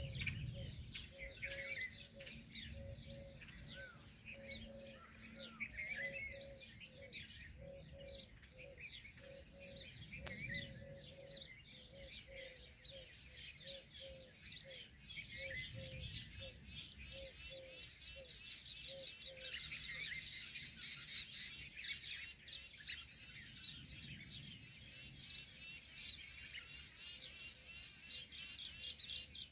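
Several small birds chirping and twittering in short, overlapping calls, with a faint low note repeating about once or twice a second underneath.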